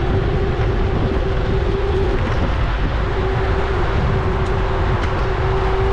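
Wind buffeting and road noise on a GoPro's microphone while riding a bike, with a steady mid-pitched whine that drops out briefly about two seconds in.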